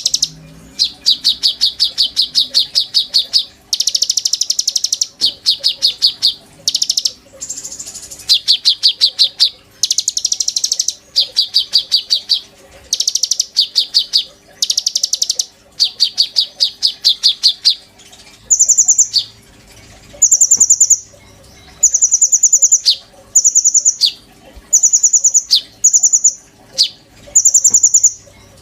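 A konin songbird singing vigorously in phrases of rapid, buzzy trills, each lasting one to two seconds, the phrases alternating between a higher and a slightly lower pitch. About two-thirds of the way through the song changes to shorter, higher trills repeated roughly every second and a half.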